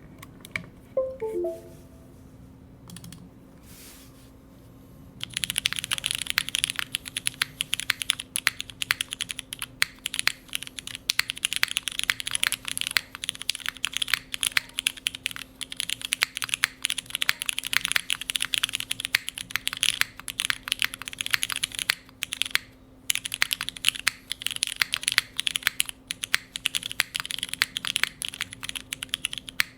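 Typing on a Neo65 Core Plus mechanical keyboard with tactile Cherry MX Brown switches on an aluminium plate, fitted with GMK keycaps. Fast, continuous keystrokes start about five seconds in, with a brief pause past the middle. A few short falling notes sound in the opening seconds.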